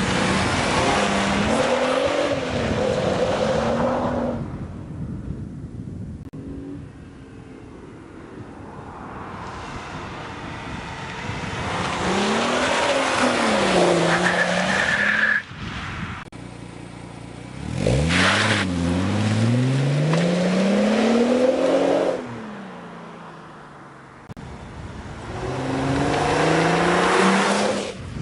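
Mercedes CLK 320's 3.2-litre V6 breathing through an aftermarket Supersport rear silencer, revved hard in four loud bursts. In each burst the engine pitch climbs and falls, with quieter stretches between them.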